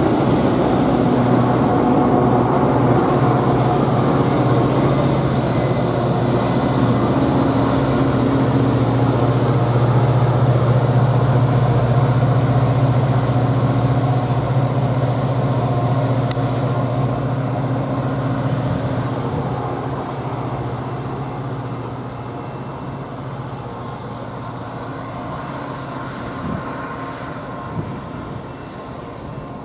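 A Metra commuter train rolls past with a steady diesel locomotive drone over wheel-and-rail rumble. The sound fades over the last third as the train moves away.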